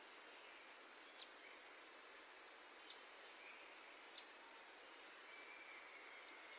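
Three short, high bird chirps, about a second and a half apart, over a faint steady outdoor hiss.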